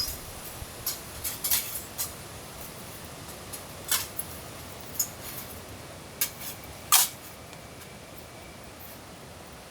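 Sharp clicks and light knocks of camping gear being handled, about nine of them in the first seven seconds, the loudest near seven seconds, over a steady hiss of rain.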